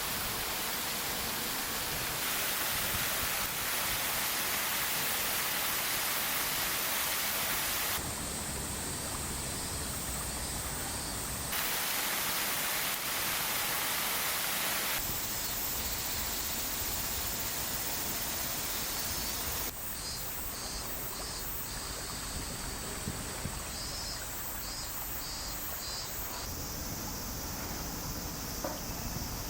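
Steady rushing of falling water from a waterfall, a dense hiss whose character shifts abruptly several times as the shot changes. In the last third a high, rhythmic pulsing chirp joins it.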